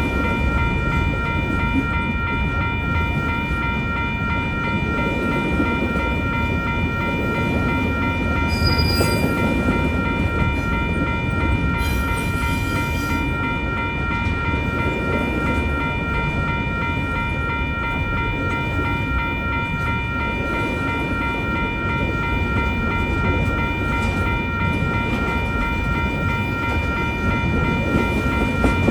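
Union Pacific intermodal freight train rolling steadily through a grade crossing, wheels rumbling on the rails, with the crossing's warning bell ringing continuously over it. There is a brief high squeal about nine seconds in.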